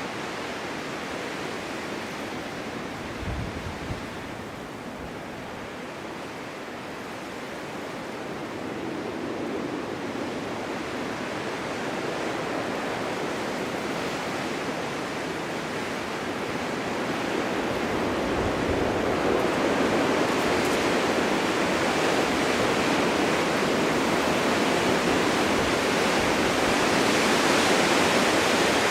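Winter wind blowing in gusts through a snowy forest, a steady rushing noise that eases off a few seconds in and then builds into a stronger gust over the second half. A brief low thump of wind on the microphone comes about three seconds in.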